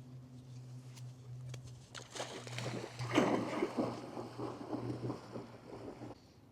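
A large dog splashing and wading through shallow water, the sloshing building up about two seconds in and peaking a second later, over a steady low hum.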